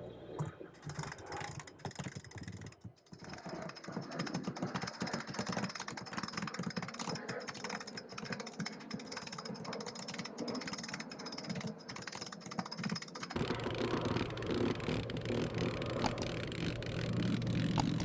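Sailboat winch being cranked to hoist the jib, its ratchet pawls clicking rapidly and unevenly. About thirteen seconds in, the sound changes abruptly to a steadier low rumble.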